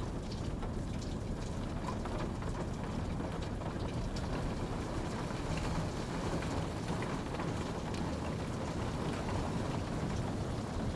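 Steady rain falling, a dense low rush with scattered drops tapping.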